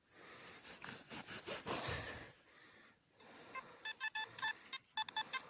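Rustling and scraping of hands working through soil for about two seconds. Then, from about three and a half seconds in, a quick series of short electronic beeps from a TX 850 metal detector signalling a target.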